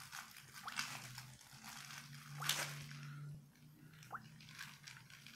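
A toddler biting and sucking on a lemon wedge: a few short, wet mouth sounds, the loudest about halfway through, over a low steady hum.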